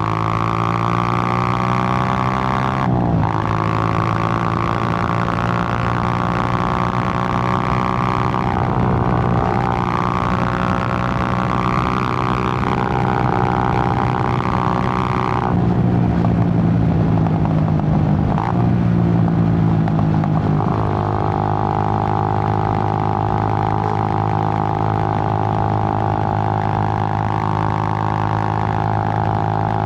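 Suzuki GN125's single-cylinder four-stroke engine running under way, a steady drone whose pitch steps to a new level a few times.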